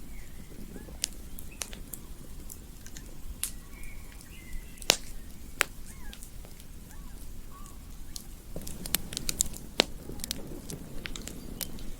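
Wood campfire crackling, with sharp pops scattered throughout over a low steady rumble; the loudest pops come about five seconds in. Faint short chirps sound in the background.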